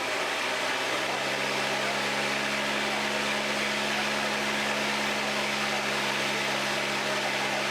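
A machine running steadily: an even motorised hum with a few constant low tones under a broad hiss, settling in just after the start and holding unchanged.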